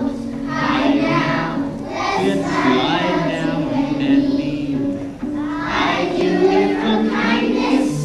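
A choir of children singing a song over a held instrumental accompaniment.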